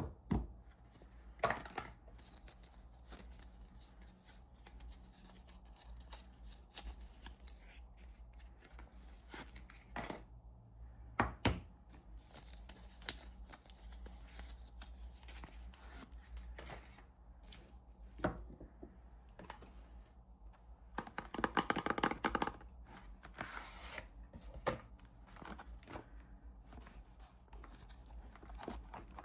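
Hands opening soap packaging: the wrappers rustle and tear among scattered light taps, with a longer stretch of dense crinkling about two-thirds of the way through.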